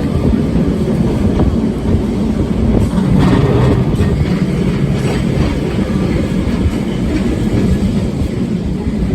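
Vintage Lisbon tram running along its rails: a steady low rumble with rattling and wheels clattering over the track.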